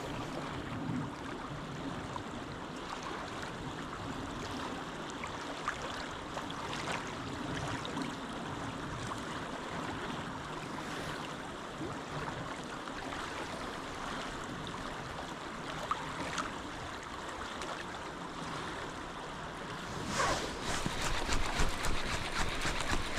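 Steady rushing of river water. About twenty seconds in, a louder run of quick, regular clicks and rustles comes in over it.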